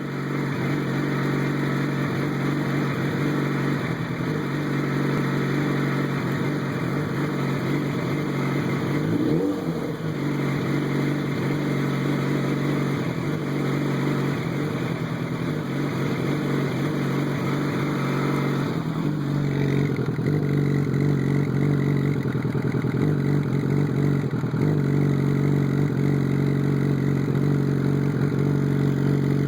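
2007 Yamaha FZ1's inline-four engine running with a misfire, sputtering. A brief change in pitch comes about a third of the way in.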